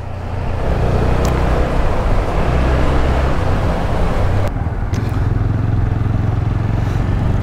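TVS Apache RTR 160 4V's single-cylinder engine running under way, with road and wind noise over it. The sound changes abruptly about four and a half seconds in, where the hiss thins out.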